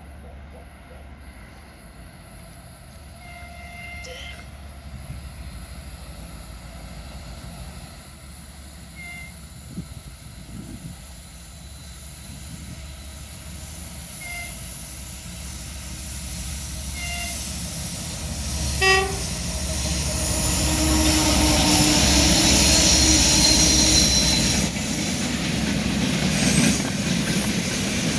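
A freight train approaching along the line, growing louder from about 20 seconds in with a steady engine tone and a high whine. Several short horn-like toots come earlier, the longest about two-thirds of the way through.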